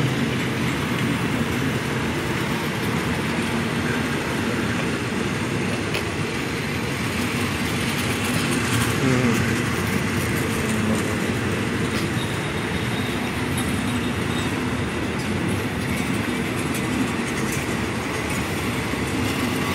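Passenger train coaches rolling past, a steady noise of their wheels running on the rails.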